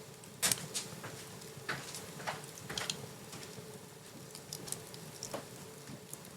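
Wood fire in a fireplace crackling, with scattered sharp pops, the loudest about half a second in.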